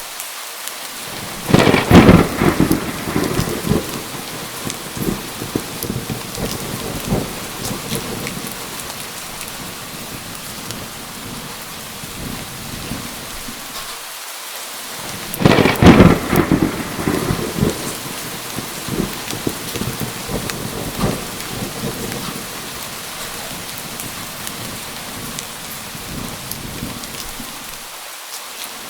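Steady rain with two claps of thunder, one about a second and a half in and another about halfway through, each rumbling on for a few seconds before fading back under the rain.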